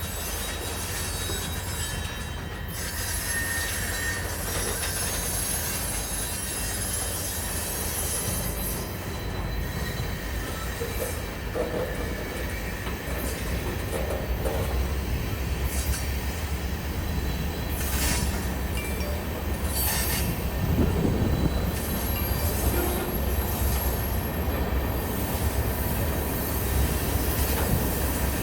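Norfolk Southern freight train rolling past with a steady low rumble, its wheels squealing thinly on the rails now and then, with occasional clicks from the track.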